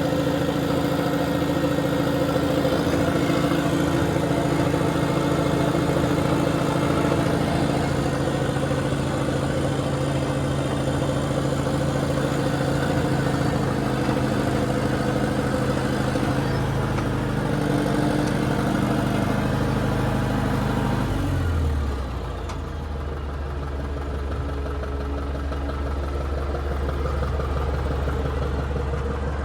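A heavy machine's engine running steadily at high revs, then throttled down to a low idle about 21 seconds in.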